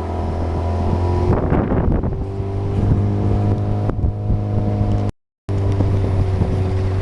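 Motorboat engine running steadily at speed, with wind on the microphone and some rushing water. The sound drops out for a moment about five seconds in, then carries on.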